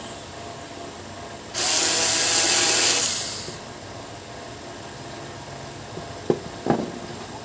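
A small electric motor runs for about two seconds with a whirring whine and stops. Two sharp clicks follow near the end.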